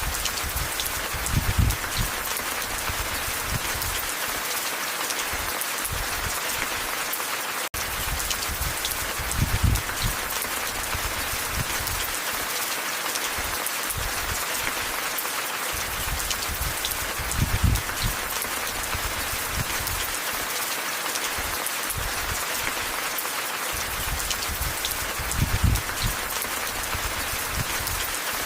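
Steady rain falling, an even hiss, with a low rumble swelling up about every eight seconds. The sound cuts out for an instant a little before the middle.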